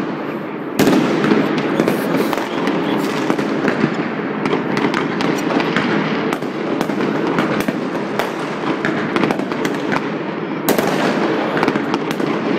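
Massed New Year's fireworks going off all over the city at once: a continuous din of crackling and bangs, with sharp loud bangs about a second in and again near the end.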